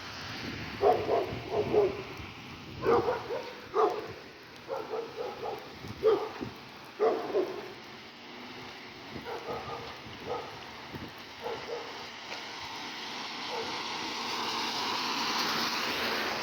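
A dog barking repeatedly in short bouts over a steady hiss of rain. The barks thin out after about twelve seconds, and the hiss swells near the end.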